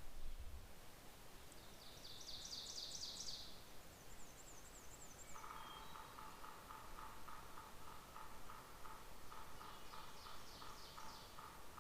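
Wild birds singing in spring woodland: quick high-pitched song phrases about two seconds in and again near the end, and from about five seconds in a steady run of rapid, lower repeated notes.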